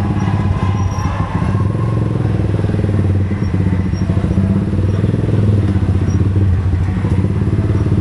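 Motorcycle engine running steadily, with a fast, even firing pulse.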